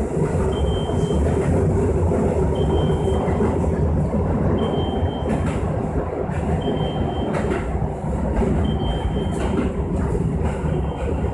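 Running noise heard inside a Keisei 3000 series commuter train car: a steady rumble of wheels and running gear with light rail-joint clacks as the train pulls into a station. A short, faint high beep repeats about every two seconds.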